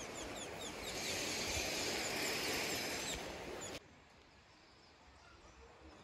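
Outdoor ambience: a small bird repeating short, high, falling chirps about three a second over a steady hiss. About four seconds in it drops abruptly to a much quieter background with only faint chirps.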